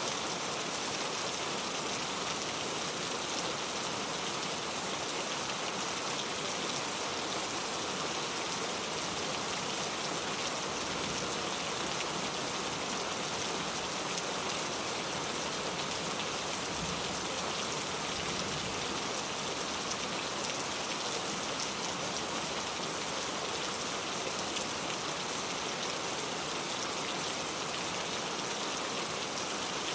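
Steady rain falling, an even continuous hiss of many drops on a surface.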